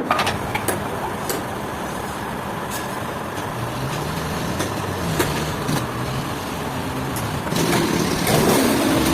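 An engine running steadily, its pitch wavering a little, with a few sharp knocks over it.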